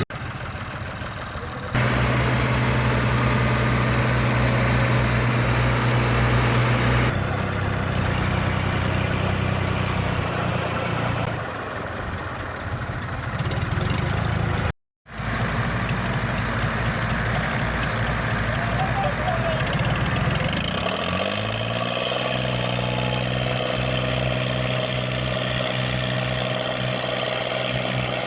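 Farm tractor diesel engines running hard, pulling sand-loaded trolleys through deep sand, heard as several cut-together clips with abrupt changes in engine note. A momentary total dropout comes about halfway through.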